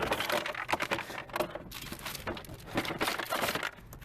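Continuous crinkling and rustling of plastic bagging with scattered light clicks and knocks as salvaged car parts are handled and packed.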